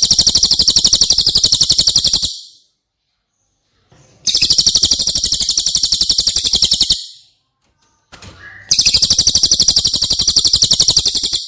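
Cililin songbird song: a very fast, high trill of rapidly repeated notes. It comes in three bursts of about two and a half seconds each, separated by short pauses.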